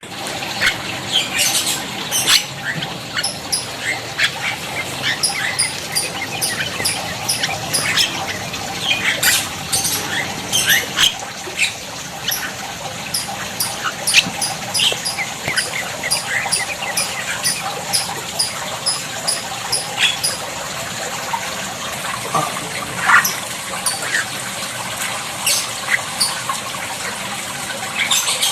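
Birds chirping and squawking over a steady rush of water, with one high chirp repeating regularly through the middle stretch.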